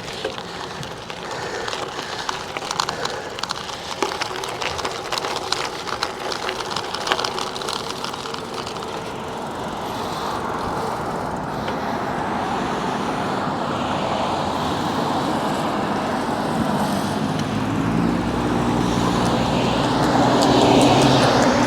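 Road traffic: a motor vehicle's engine and tyres approaching, getting steadily louder over the last few seconds as it comes close.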